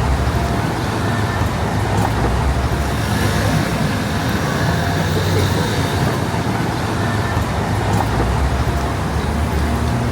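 Street traffic: a steady wash of road noise with the low hum of car and bus engines running and passing.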